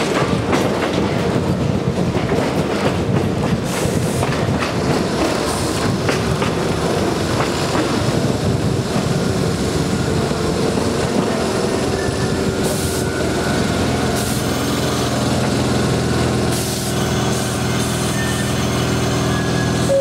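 Konan Railway Owani Line train running on the track, heard from on board, its wheels clicking over rail joints. Steady humming tones join the running noise about two-thirds of the way through.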